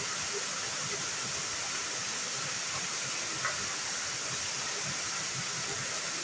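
Waterfall rushing steadily: an even wash of falling and splashing water.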